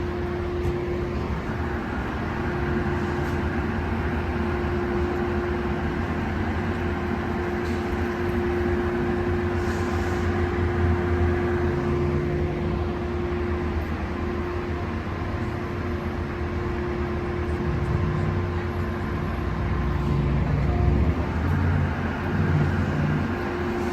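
Metrolink train idling while stopped at the station platform: a steady low rumble with a constant hum running under it.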